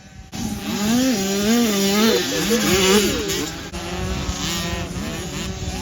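Small 50cc two-stroke youth motocross bikes racing past, engines revving up and down as the riders work the throttle; two engines can be heard at once a couple of seconds in.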